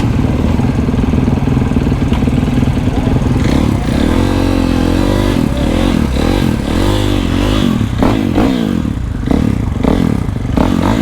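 Supermoto motorcycle engine running steadily, then from about four seconds in revving up and down repeatedly as the bike is ridden off and accelerated through the gears.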